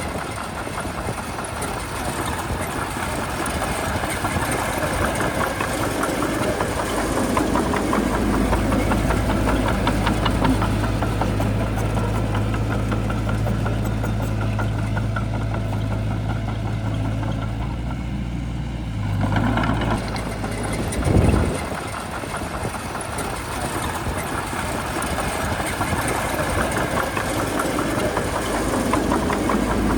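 Heavy diesel engine of a bulldozer running steadily at work, with a short louder surge about two-thirds of the way through.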